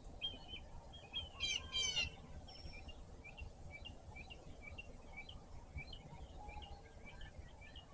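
Wild birds chirping in the morning: two loud, short harsh calls about one and a half seconds in, then a long run of quick repeated chirps, over a steady low background rumble.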